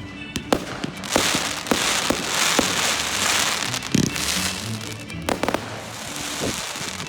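Fireworks going off: a string of sharp bangs and pops, then a few seconds of dense crackling hiss, with more bangs about five seconds in.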